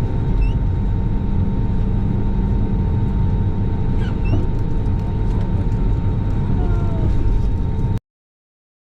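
Airliner engines running with a steady low rumble and a thin steady whine, a few faint chirps over it; the sound cuts off abruptly about eight seconds in.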